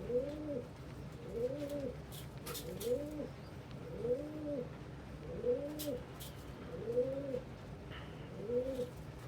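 Domestic pigeon cooing over and over, each coo rising and falling in pitch, about one every second and a half, with a low steady hum underneath.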